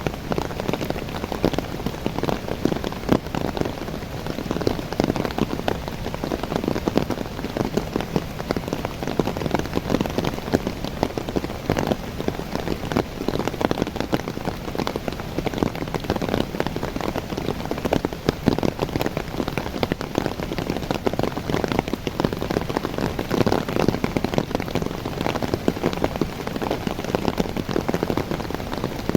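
Rain pouring on young coffee plants: a steady, dense patter of drops striking the leaves.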